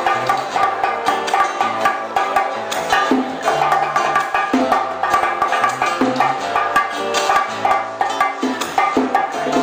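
Live old-school Cuban music from a band: quick, steady hand percussion with a wooden clicking beat, plucked strings and a moving bass line.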